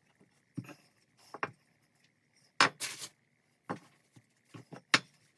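Rolling pin and pastry being worked on a kitchen work surface: irregular knocks and taps, with the loudest knocks about two and a half and five seconds in.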